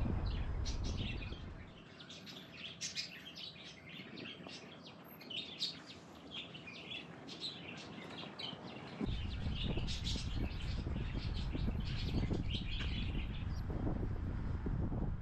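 Many small birds chirping in quick, overlapping calls, dying away near the end. A low rumbling noise covers them in the first second or two and again from about 9 seconds in.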